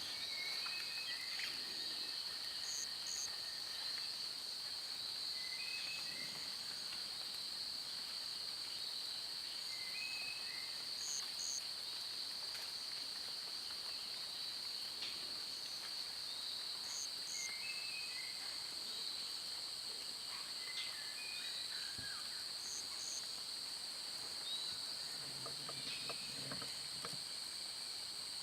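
Forest ambience: a steady, high insect drone of crickets or cicadas runs throughout, with a bird giving a short call every four to five seconds and a fainter high double chirp repeating at a similar interval.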